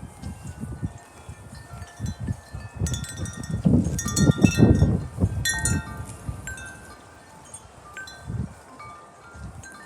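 Metal wind chimes ringing in gusty wind, with many overlapping tones that ring on. A gust a few seconds in sets off a dense flurry of strikes, with wind rumbling on the microphone.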